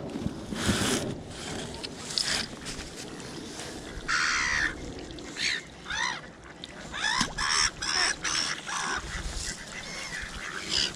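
Geese honking: a run of short, harsh calls, most of them in the middle of the stretch.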